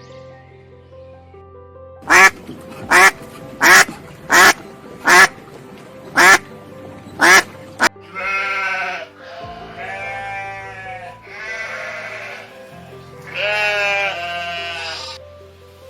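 A duck quacking seven short times, a little more than once a second, then a goat bleating in four long calls, over background music.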